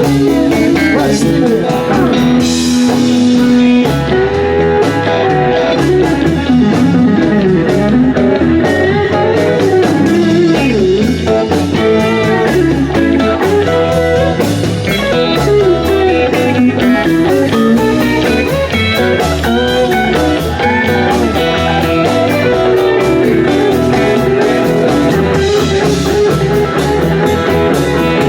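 Blues-rock band playing an instrumental passage, a guitar carrying held and bending lead notes over bass and drums.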